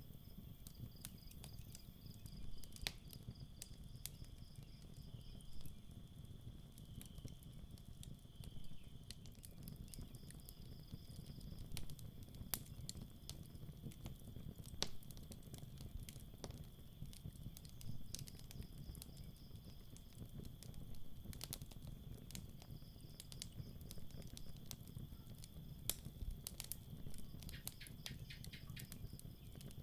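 Campfire crackling, with scattered sharp pops and snaps over a low, steady rumble of burning wood. Crickets chirp throughout in a steady high trill, with a second, pulsing trill that comes and goes.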